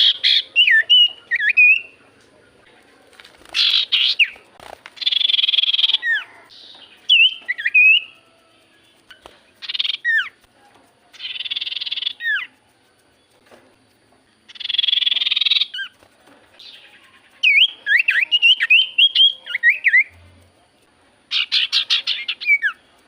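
Iora (sirtu cipoh) singing in repeated phrases: harsh, buzzy chattering bursts alternate with clear whistled notes that swoop down and up, with short pauses between phrases.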